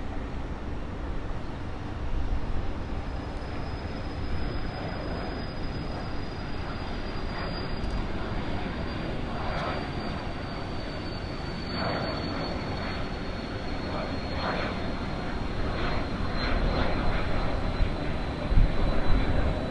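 Embraer Phenom 100 business jet's twin rear-mounted Pratt & Whitney Canada PW600-series turbofans at takeoff: a steady high whine that slowly drops in pitch over a broad rushing noise, growing louder toward the end.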